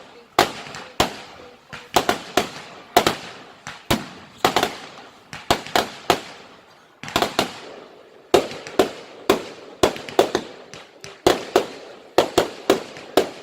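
Fireworks going off in rapid succession: sharp bangs, about two a second, each trailing off in a short echoing tail, with a brief lull about halfway through before the bangs start again.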